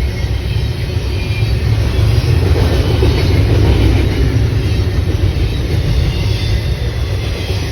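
A train passing, its rumble swelling a couple of seconds in and easing off toward the end.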